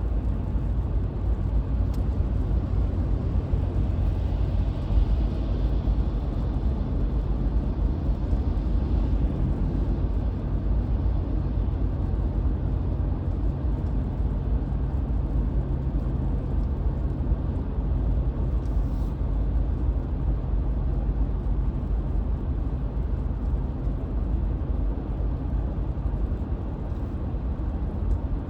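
Car interior road noise while driving on a highway: a steady low engine-and-tyre rumble that holds level throughout, with a faint hiss of tyres on wet pavement for a few seconds.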